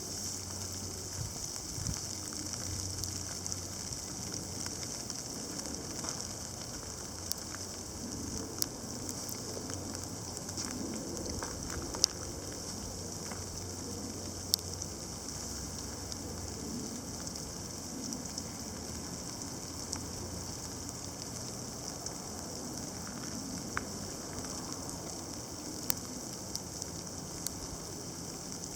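Sleet mixed with snow falling: a steady fine hiss with scattered sharp ticks of ice pellets landing, a few of them louder.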